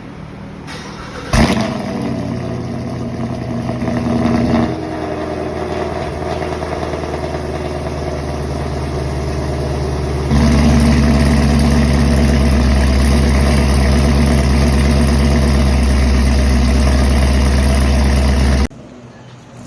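Chevrolet Camaro LT1 V8 running through 1 7/8-inch long-tube headers and a Magnaflow muffler fitted ahead of the factory muffler. It jumps sharply louder about a second in and swells for a few seconds. Around ten seconds in it steps up to a louder, steady held rev, then drops back abruptly near the end.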